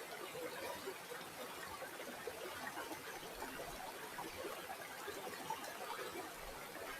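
River water flowing, a steady trickling, babbling sound.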